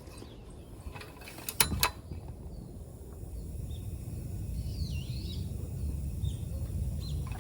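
Two sharp clicks close together, then a low steady rumble that grows louder, with a few short bird calls about midway.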